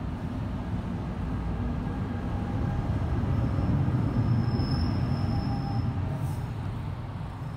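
NJ Transit multilevel train passing close by, its Bombardier ALP-46A electric locomotive bringing up the rear. The rumble of wheels on rail builds to its loudest as the locomotive goes by about four seconds in, with a high steady whine, then fades as the train clears.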